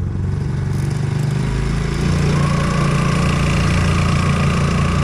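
Hangkai 4 hp air-cooled four-stroke outboard motor running during its break-in, steady at first, then running harder and a little louder about two seconds in.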